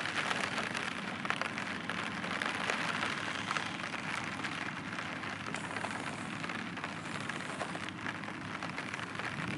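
Steady hiss with scattered crackles, typical of light rain on the microphone, with the off-road SUV's engine running faintly in the distance underneath.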